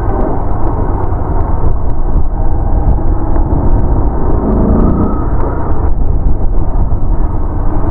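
Motorcycle ride heard through a helmet microphone: loud, steady wind rumble with the bike's engine running underneath.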